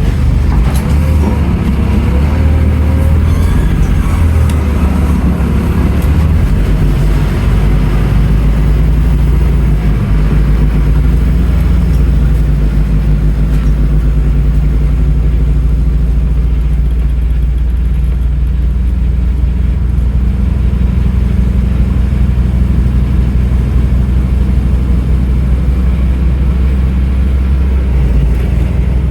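Scania N310UA articulated city bus, with a ZF Ecomat 6HP automatic gearbox, being driven, its diesel engine giving a steady low drone throughout.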